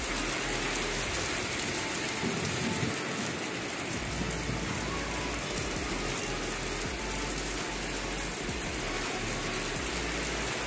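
Heavy rain falling steadily, splashing onto a paved terrace and the trees around it.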